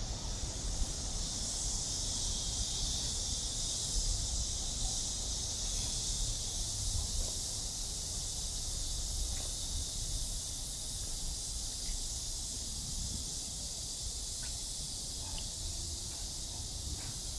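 Cicadas droning steadily in a continuous high hiss, with a low rumble underneath.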